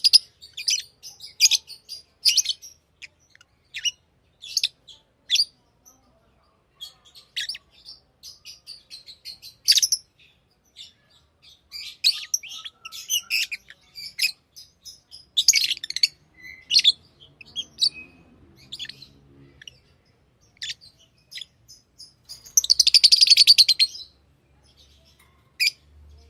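Pet lovebirds chirping: short, sharp chirps scattered irregularly throughout, with a dense burst of rapid, buzzy chatter lasting about a second and a half near the end.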